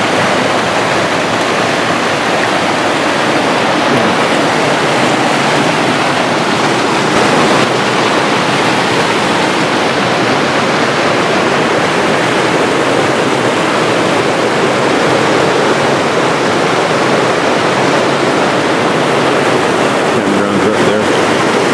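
Waterfall pouring steadily, a loud, unbroken rush of falling water.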